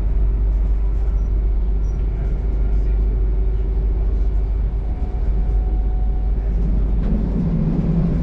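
Electric passenger train running along the track, heard from inside the carriage: a steady rumble with a constant hum over it, and a deeper rumble that swells about seven seconds in.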